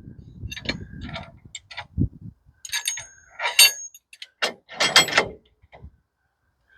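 Metal clanking and ratchet-like clicking from a manual bandsaw mill's log stop being worked and dropped down, a string of separate knocks with the loudest clanks about three and a half and five seconds in.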